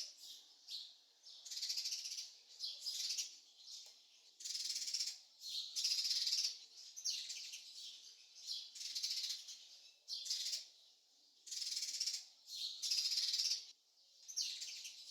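Bird calling in repeated high, rattling chirp bursts, each under a second long and coming one or two a second.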